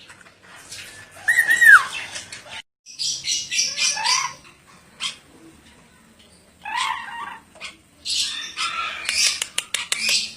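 Ornate lorikeet squawking and chattering in several shrill bursts, one of them a short whistle that rises and falls about a second in.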